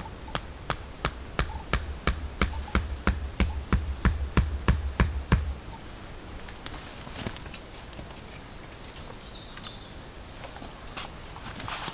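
A quick, even series of sharp taps, about three a second, growing louder for some five seconds and then stopping. A few short, high bird chirps follow.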